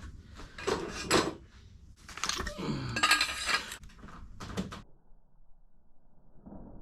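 Metal tools clinking and scraping as a holding tool and extension bar are worked onto a tight motorcycle clutch basket nut, in two bouts, the second longer, then it goes quiet about five seconds in.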